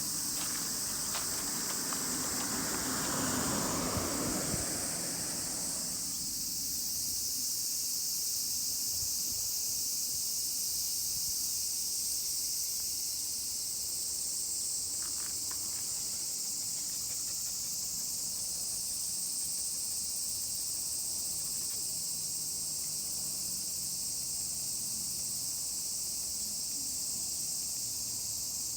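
Chorus of many cicadas singing, a steady high-pitched buzz that does not let up. For the first six seconds there is also some rustling.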